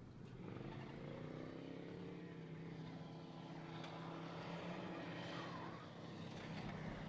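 A distant car's V8 engine running hard at speed, a steady drone that slowly grows louder as the car comes closer.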